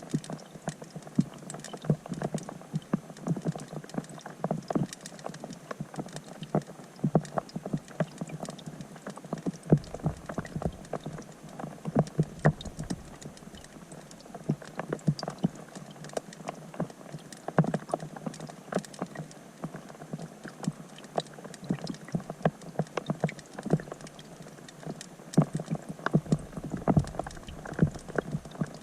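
Rain falling on a pond, heard underwater through a GoPro: a dense, irregular patter of sharp ticks as drops hit the surface.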